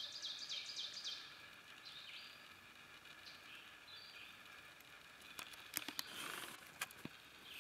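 Quiet forest ambience with a songbird singing a fast run of repeated high notes in the first second, then scattered high chirps. A few sharp clicks and a brief rustle come around six seconds in.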